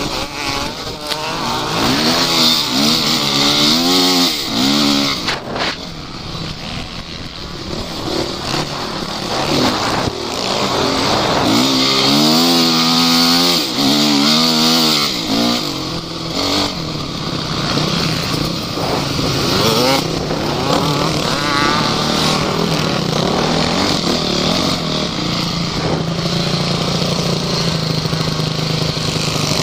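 Off-road vehicle engine revving up and down repeatedly while being driven off-road, settling into a steadier drone near the end.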